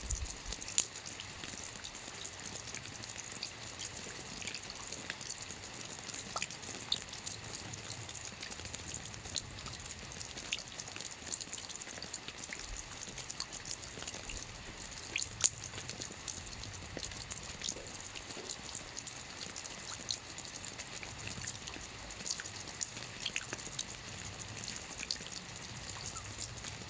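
Steady rain, a continuous hiss with many sharp individual drops pattering and dripping on a surface.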